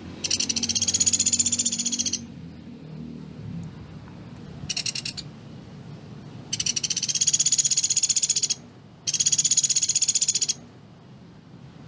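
Pelatuk beras (small Asian woodpecker) giving its rapid-fire trilled call in four bursts: a long rattle of about two seconds, a short one a few seconds later, then two more long rattles close together near the end. There is a faint low hum under the calls.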